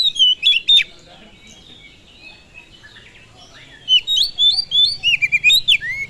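Oriental magpie-robin (kacer) singing: rapid, varied whistled phrases of sliding and chopped notes. The song breaks off about a second in and resumes loudly near four seconds.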